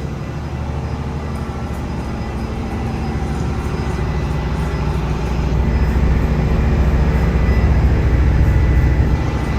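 Lobster boat's engine running steadily under way, a low drone that grows louder about halfway through and eases back near the end.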